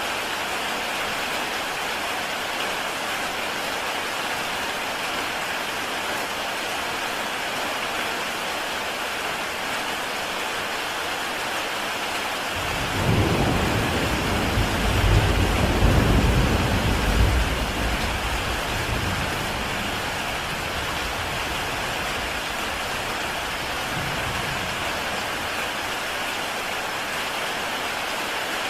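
Heavy rain falling steadily on a tile roof, with a low rumble of thunder that starts suddenly about halfway through, swells for a few seconds and dies away.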